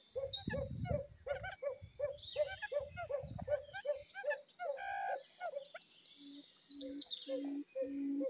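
Birds calling: a short low note repeated about three times a second, with higher chirps and twitters of small birds over it, and longer evenly spaced low notes beginning near the end. A low rumble sounds under the calls during the first few seconds.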